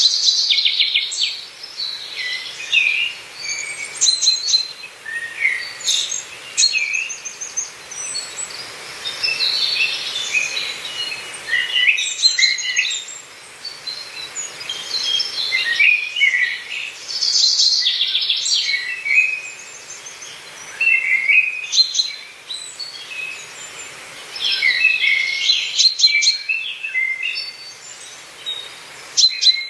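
Several songbirds singing and calling over one another: chirps, short warbled phrases and a few quick trills in steady succession. A faint steady hiss lies underneath.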